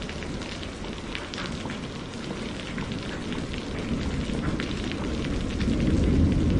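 Steady rain with scattered close drops, over a low rumble of thunder that grows louder toward the end.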